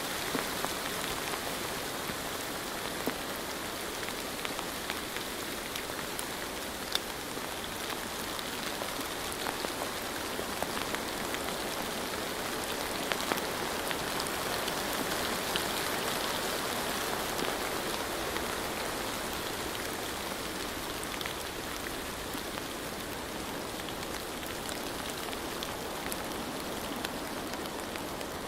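Steady rain falling, with many small drop ticks scattered through a continuous patter.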